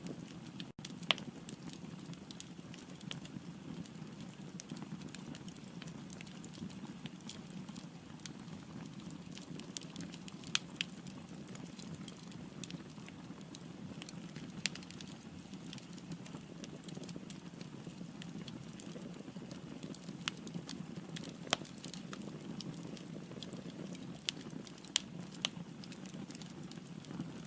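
Firewood burning in a fireplace: a steady low rumble of flame with many sharp, irregular crackles and pops.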